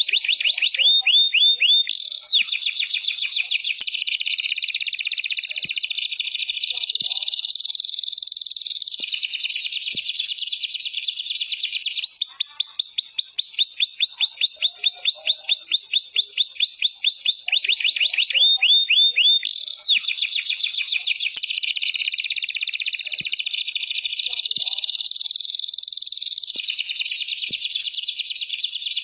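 Canary singing a continuous song of rapid trills and rolls, switching to a new phrase every couple of seconds. The same run of phrases comes round again about seventeen seconds later.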